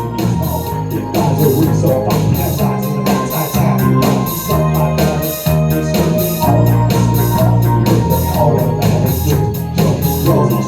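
Live band music: keyboard with an organ-like sound over bass and drums keeping a steady beat.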